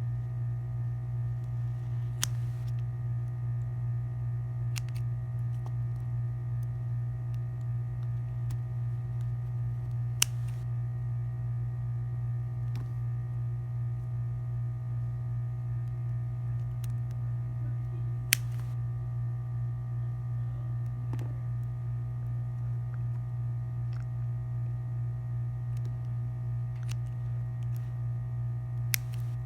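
Steady electrical mains hum, low and continuous, with four brief sharp clicks spread several seconds apart.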